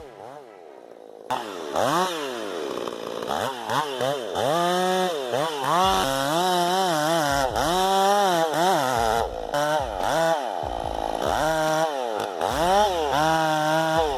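Tuned Stihl MS 461 chainsaw with a 32-inch bar cutting big timber. Its engine pitch drops under the load of the cut and climbs again over and over, getting louder about a second in.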